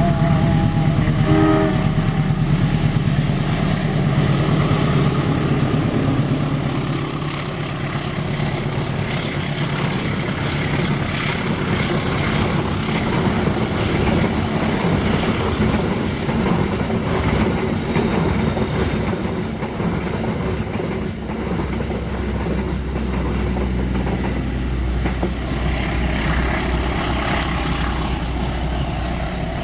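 A train passing on a curve, its diesel locomotive's engine running with a steady low hum while the carriage wheels clatter over the rails. There are a couple of brief pitched tones just at the start.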